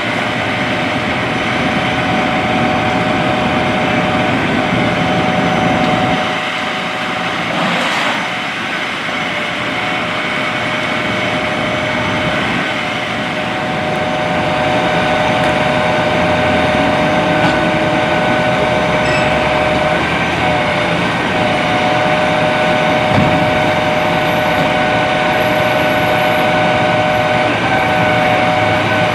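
Vehicle engines running steadily, with a constant hum over the noise and a brief whoosh about eight seconds in.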